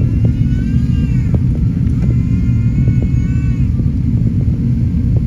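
Steady, loud low rumble of an Airbus A380 in flight, heard as engine and airflow noise inside the cabin. A faint voice sounds twice in the background.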